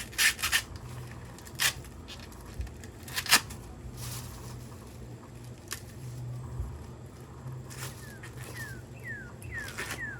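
Food preparation with utensils: scattered sharp knocks and clicks, several in the first few seconds. Near the end a bird gives a quick run of short, falling chirps.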